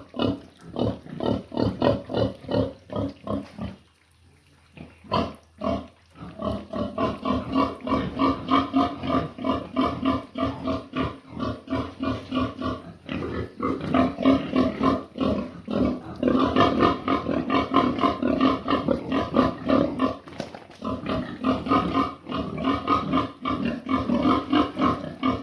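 Pigs grunting and squealing in rapid, repeated calls, with a short lull about four seconds in before the calls pick up again.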